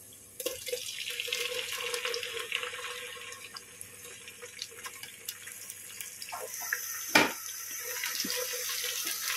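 Browned onions and tomato frying in oil in a cooking pot: a steady sizzling hiss, with a single sharp knock of a utensil against the pot about seven seconds in.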